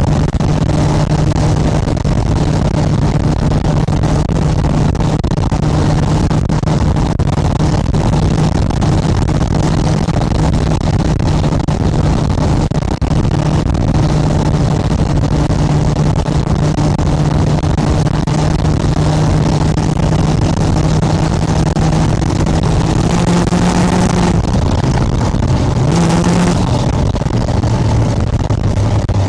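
V8 engine of a chopper trike running steadily under way. Near the end the engine note climbs briefly and then falls to a lower steady note.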